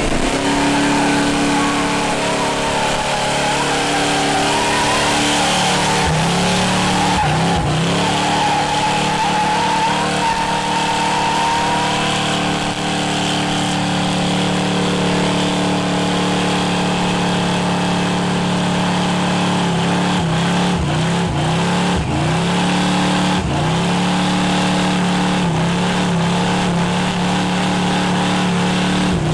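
Car engine held at high, steady revs, dropping off briefly and picking up again a few times, in quick succession near the end.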